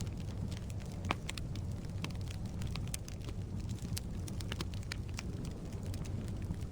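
Firewood burning in a fireplace: a steady low rumble of the flames with irregular sharp crackles and pops, one louder pop about a second in.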